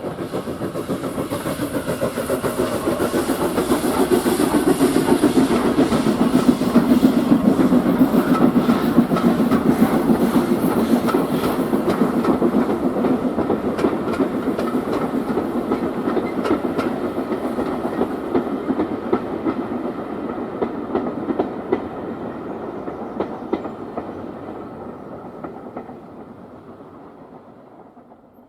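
Steam-hauled train passing: a dense rolling clatter of wheels on rail that grows louder, peaks about a third of the way in, then fades slowly into the distance.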